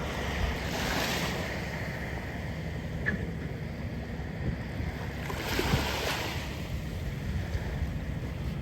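Gulf surf washing in at the shore, with two swells of hiss about a second in and again past the middle, over a steady low rumble of wind on the microphone.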